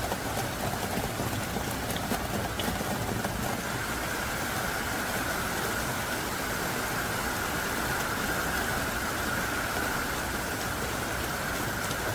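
Heavy downpour: thick, hard rain falling as a steady, dense hiss, with a few faint drop ticks.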